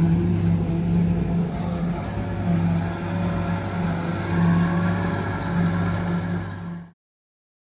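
Tractor engine running steadily, its drone swelling and easing a little, then cut off abruptly near the end.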